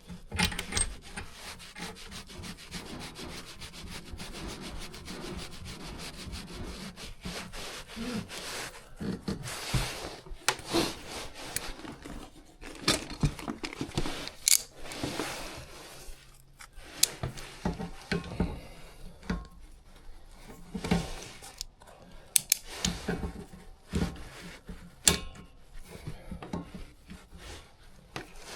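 Flexible gas connector being threaded back onto a furnace's new gas valve and tightened with a wrench: continuous metal scraping and rubbing at first, then scattered sharp clicks and knocks of the tool on the fitting.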